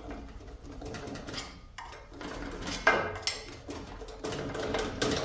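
Metal band saw parts and hand tools clinking, scraping and knocking as the saw is taken apart, with one sharper knock about three seconds in.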